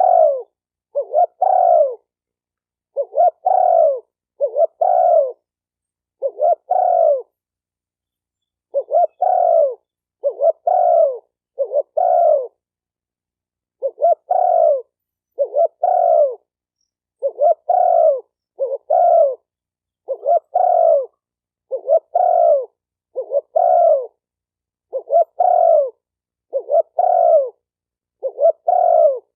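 Spotted dove cooing: a long series of short, low coos, mostly in pairs about a second apart, with dead silence between them.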